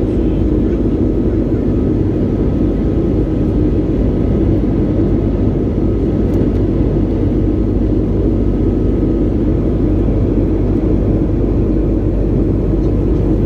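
Steady engine and airflow noise of an Airbus A330-200 airliner in flight, heard from inside the passenger cabin: a loud, even, low-pitched rumble with a faint high whine running through it.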